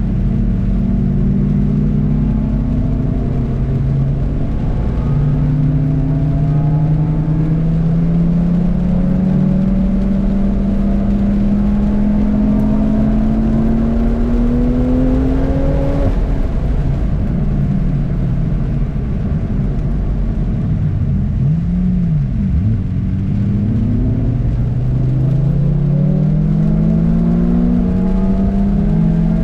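Car engine on a race track, heard from inside the cabin, pulling hard with its pitch climbing through the gears. About halfway through the revs fall away under braking, with a few quick rises and drops of revs as it downshifts, then it accelerates again. A steady low road and tyre rumble runs underneath.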